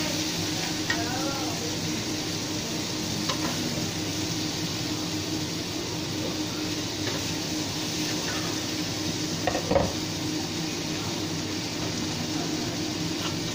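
Okra sizzling in oil in a nonstick wok while a wooden spatula stirs and scrapes it, over a steady low hum. A single sharper knock of the spatula against the pan about ten seconds in.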